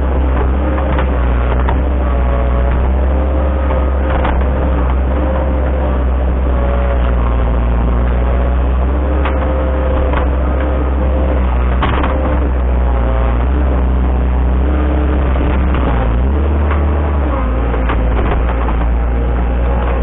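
A large engine, typical of land-clearing machinery, running steadily, its pitch wavering a little as the load changes. A few sharp knocks or cracks sound over it.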